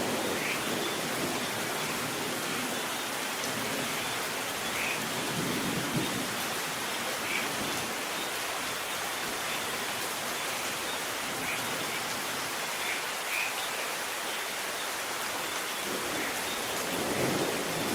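Steady rain falling, with low thunder rumbling briefly about six seconds in and building again near the end.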